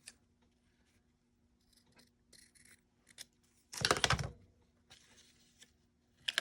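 Paper being handled on a desk: a few faint rustles and clicks, then one loud paper rustle for about half a second, about four seconds in.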